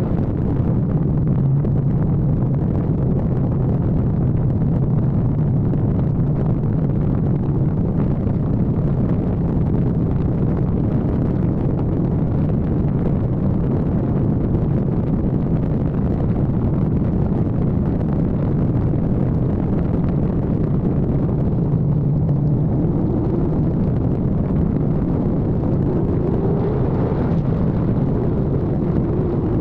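Kawasaki ZX-14R sportbike's inline-four engine running steadily under way, with a constant rush of wind and road noise. The engine note climbs in pitch about three quarters of the way through as the bike speeds up.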